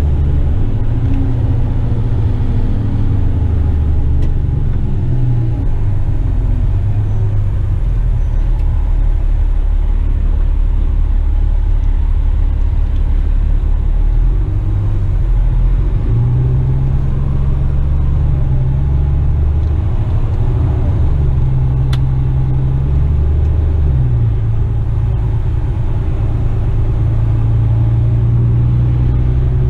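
Western Star tipper truck's diesel engine running steadily under way, a deep low rumble whose pitch steps up and down a few times as the revs change.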